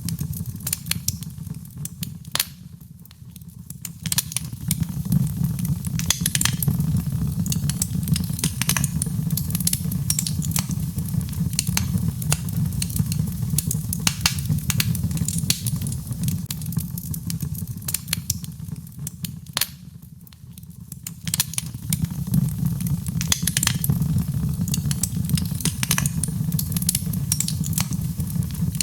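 Birch logs burning in a fireplace: a steady low rumble of flame with sharp crackles and pops scattered throughout. The rumble drops away briefly about three seconds in and again about twenty seconds in, then returns.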